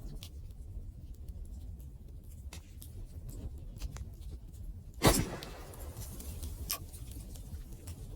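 Campfire crackling: scattered small snaps over a low rumble, with one loud pop about five seconds in and another sharp snap a moment later.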